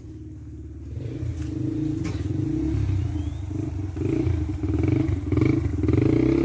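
Small engine running as a vehicle putters up, growing louder about a second in, its speed rising and falling unevenly.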